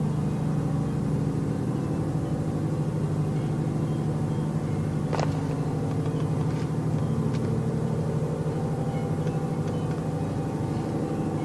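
Unexplained steady low drone made of several held tones, which sounds like an airplane but does not stop or change. There is a sharp click about five seconds in and two fainter ticks shortly after.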